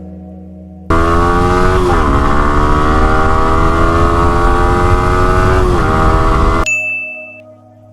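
Yamaha R15 V3's single-cylinder engine on its stock exhaust accelerating hard from a standstill. The engine note comes in abruptly about a second in and climbs steadily, with two upshift dips, then cuts off suddenly, followed by a short ding.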